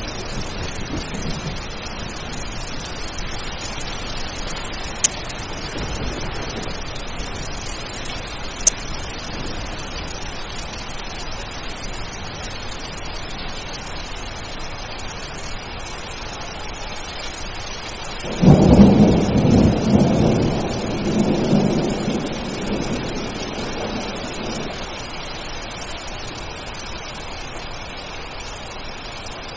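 Steady rain with a loud thunderclap about two-thirds of the way through that rumbles on for several seconds before fading. Two brief sharp clicks come a few seconds apart near the start.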